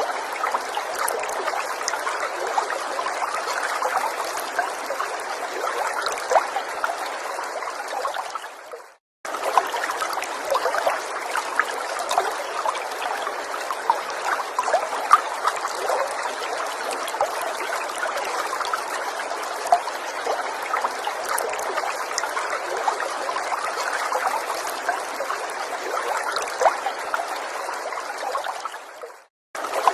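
A small forest stream trickling and burbling steadily over stones. The sound fades out and cuts straight back in twice, about nine seconds in and near the end.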